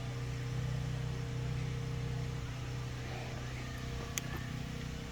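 Car engine running steadily at a low, even idle, with a single sharp click about four seconds in.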